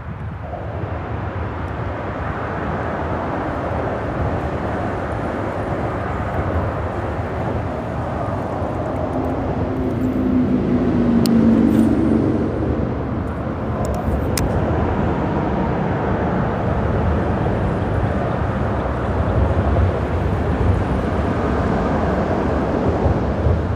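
Continuous rumble of freeway traffic crossing the bridge overhead, swelling as a louder vehicle passes about ten to twelve seconds in.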